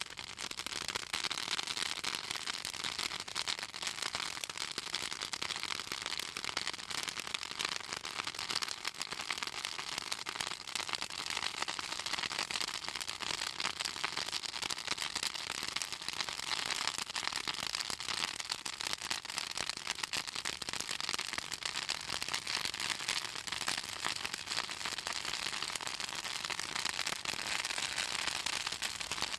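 Pruned southern magnolia branches burning in an open bonfire, crackling and popping in a dense, steady stream of sharp snaps; the oil in the magnolia wood and leaves makes them crackle.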